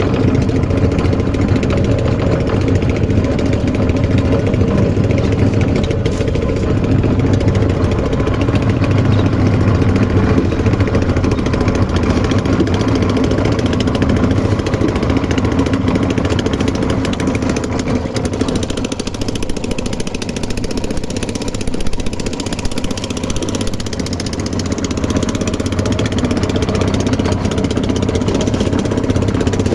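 An engine running steadily at an even speed, with a slightly quieter stretch a little past the middle.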